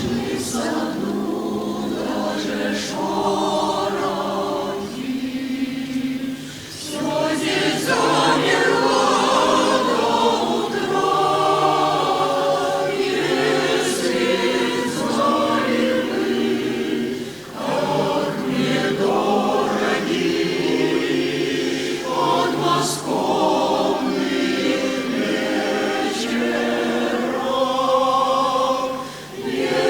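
A choir singing a song in long phrases, with short breaks between them.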